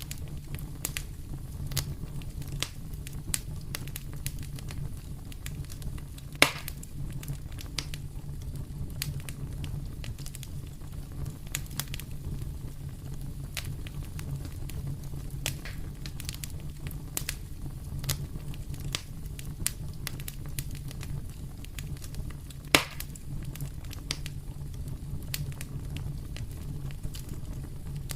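Wood fire crackling in a fireplace: a steady low rumble of the flames with constant small snaps and ticks, and two louder pops, one about six seconds in and one near twenty-three seconds.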